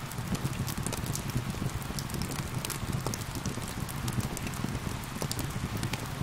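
Steady rain mixed with a crackling fire, with frequent small sharp pops and crackles over a constant low rushing.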